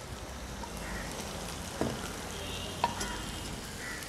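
Chopped onion masala with turmeric and chilli powder sizzling steadily in a non-stick frying pan, with a couple of light clicks about two and three seconds in.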